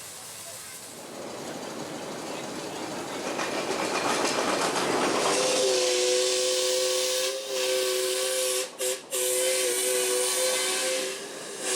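Miniature steam locomotive hissing steam, the hiss building over several seconds, then its whistle sounding a steady two-note chord for about five seconds, with a few short breaks.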